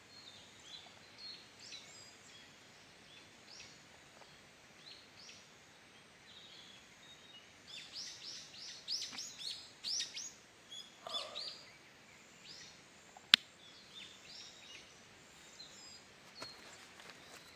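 Small forest birds chirping and calling with short, high, falling notes, busiest in the middle. A single sharp click about two-thirds of the way through.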